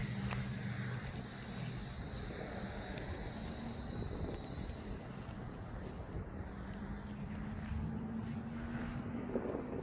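A vehicle's engine humming steadily under a wash of outdoor noise, the hum fading in the first seconds and coming back slightly rising near the end.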